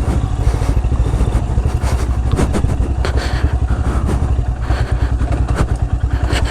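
Royal Enfield Himalayan's 411 cc single-cylinder engine running as the motorcycle is ridden over a muddy off-road trail, with frequent short knocks and rattles over the engine sound.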